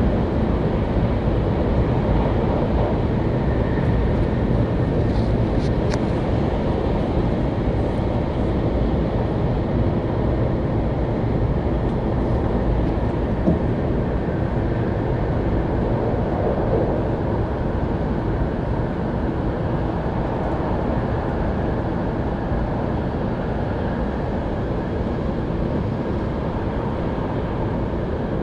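Steady rumble and rush inside the passenger cabin of a Sanyo Shinkansen Hikari Rail Star (700 series) train running at speed.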